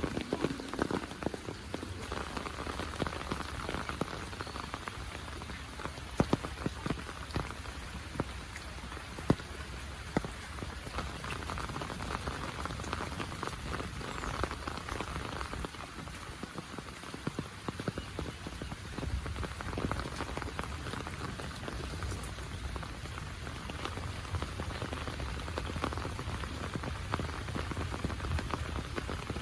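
Heavy monsoon rain falling steadily, with many sharp ticks of single drops striking close by and a few louder ones standing out.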